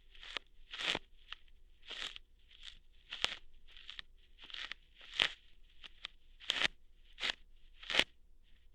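Ear hair being plucked out close to the microphone: a string of short, crisp crackling plucks, about two a second, some sharper and louder than others.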